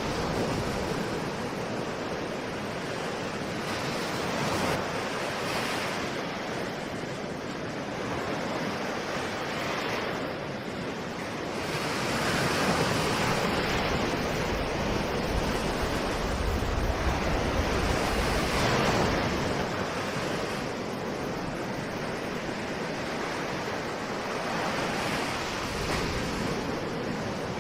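Ocean waves breaking and washing on a shore, the surf rising and falling in swells every few seconds, with some wind on the microphone.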